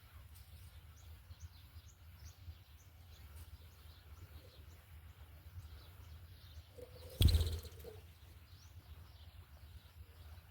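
Faint, repeated high bird chirps over a low rumble of outdoor noise, broken about seven seconds in by a single loud thump.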